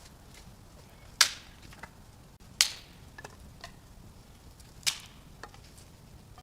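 Three sharp knocks spaced over about four seconds, each followed by a short ring, with fainter clicks between them.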